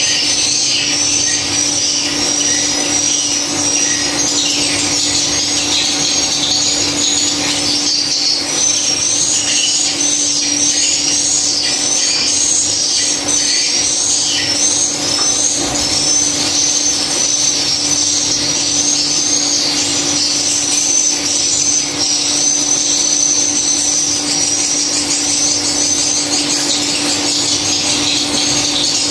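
A dense chorus of swiftlets twittering in a swiftlet house: many quick, high chirps overlapping without pause, over a steady low hum.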